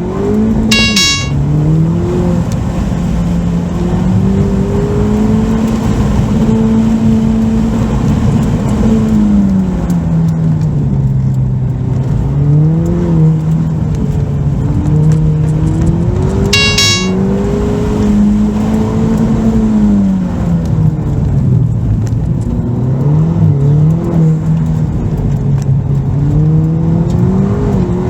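Ford Fiesta ST's turbocharged 1.6-litre four-cylinder engine on an autocross run, its pitch climbing and falling again and again as the driver accelerates, lifts and shifts. Two short high chirps come through, about a second in and again about seventeen seconds in.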